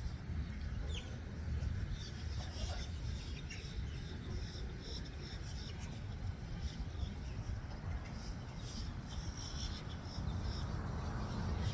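Outdoor ambience: scattered short, high-pitched chirps over a steady low rumble.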